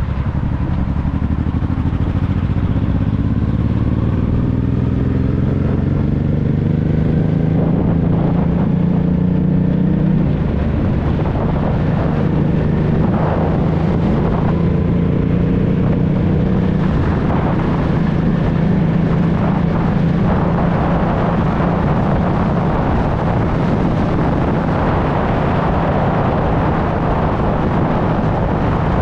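Honda NT650V Deauville's V-twin engine through a Dominator aftermarket exhaust, pulling with its pitch rising steadily for about ten seconds, then holding a steady note at cruise.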